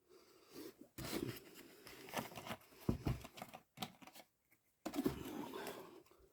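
Hands oiling and handling clutch parts: irregular scraping and rustling with a few sharp clicks.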